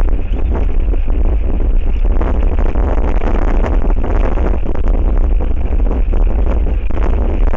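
Strong wind buffeting the outdoor camera's microphone: a loud, unbroken rumble with gusty noise over it.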